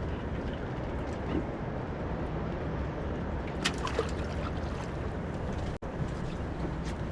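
Steady low rumble and water noise aboard a small fishing boat on the sea, with a few light clicks; the sound drops out for an instant about six seconds in.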